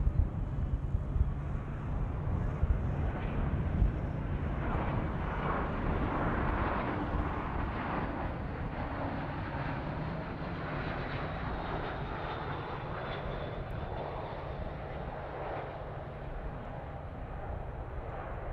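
Jet airliner's engines: a broad rumbling roar that swells toward the middle and slowly fades, with a faint high whine late on, as the plane passes.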